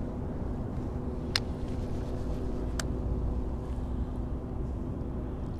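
Wind rumbling on the microphone over a faint steady hum, with two sharp clicks about a second and a half apart.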